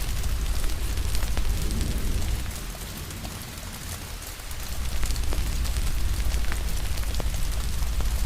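Steady rain hiss with scattered sharp pops of a crackling fire, over a low rumble that drops away for a couple of seconds in the middle before coming back.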